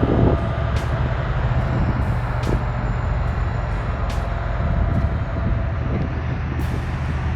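A large diesel engine running steadily with a low drone, with a few faint clicks over it.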